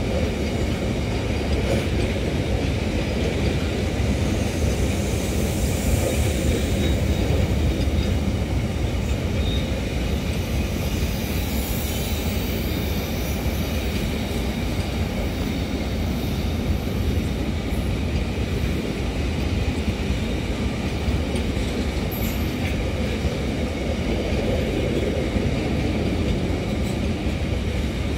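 Container freight train's wagons rolling past at speed: a steady, continuous rumble of wheels on the rails.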